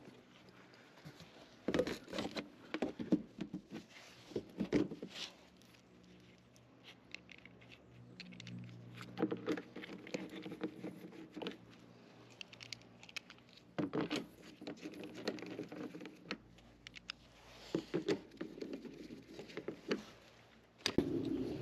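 Scattered clicks, taps and light scraping in short clusters, with quieter stretches between: small hard objects being handled.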